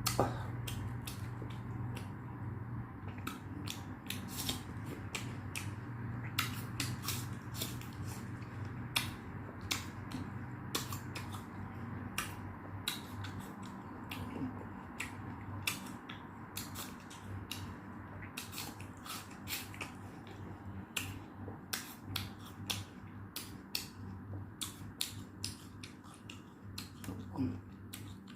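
Close-up eating sounds: irregular sharp chewing clicks and crunches, several a second, over a steady low hum.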